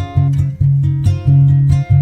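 Background music: an acoustic guitar plucked and strummed in a steady rhythm of repeated notes.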